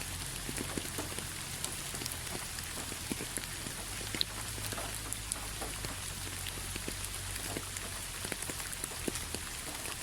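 Steady rain falling, with many individual drops pattering and ticking on a hard surface over an even hiss.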